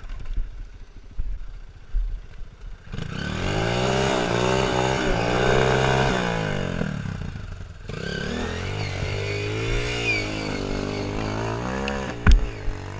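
Off-road trail motorcycle engine revving repeatedly, its pitch rising and falling, after a quieter start. A single sharp knock near the end.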